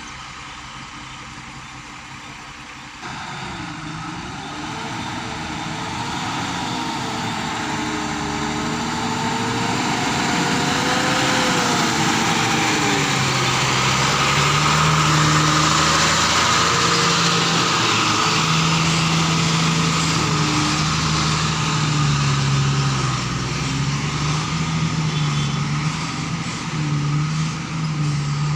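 Heavy diesel engine running under load. It gets louder about three seconds in, its pitch wavers up and down for several seconds, then it settles into a steady, louder drone.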